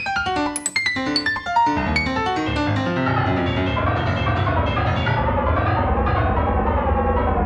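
Computer-generated sonification of coronavirus data in piano-like tones. For the first second and a half, single struck notes sound at scattered high and low pitches. Then the notes crowd into a dense, continuous cluster of many overlapping tones with a fuller bass.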